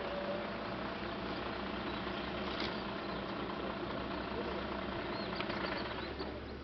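Vehicle engine idling steadily, a low even hum; its low tone shifts about six seconds in.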